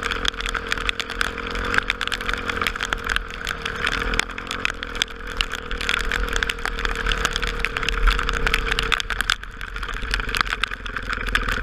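Honda XR250 Tornado single-cylinder motorcycle engine running while riding, its pitch shifting about four seconds in, under a constant dense rush of wind and crackling noise. The engine tone fades out about nine seconds in, leaving the rushing noise.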